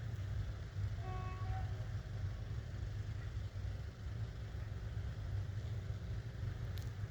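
Steady low rumble of an SM42 diesel locomotive's engine, with a brief faint pitched tone about a second in.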